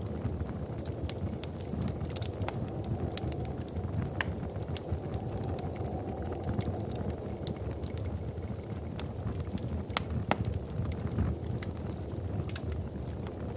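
Wood fire in a fireplace crackling: a steady low rumble of flames with irregular sharp pops and snaps scattered throughout.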